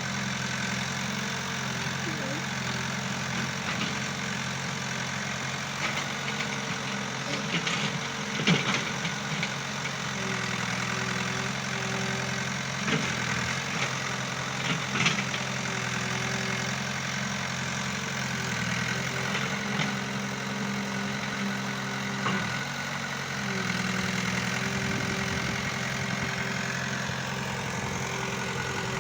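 Excavator's diesel engine running steadily, with a higher whine that comes and goes and a few sharp knocks.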